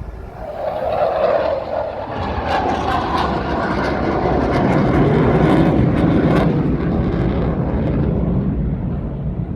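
Saab Draken jet fighter flying past: a loud jet roar that builds over the first second, is loudest about five seconds in, and drops in pitch as it goes by.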